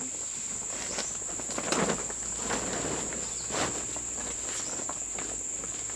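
Steady high-pitched drone of insects in the forest, with two brief louder rustles or knocks, about two seconds in and again a little past halfway.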